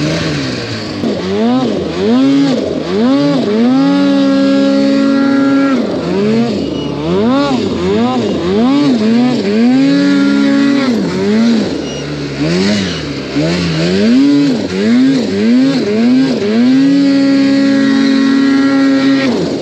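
Snowmobile engine being throttled up and down over and over while riding, its pitch rising and falling in quick swells, with a few longer stretches held at high revs.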